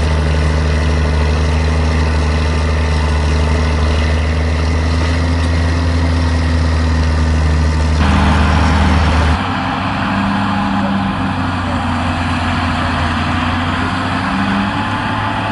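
Tractor engines running steadily under load. The sound changes abruptly about nine seconds in, to a different engine note.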